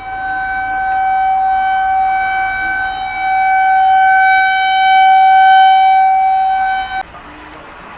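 Outdoor tornado warning siren sounding a steady tone, its loudness slowly swelling and fading, then cutting off suddenly about seven seconds in.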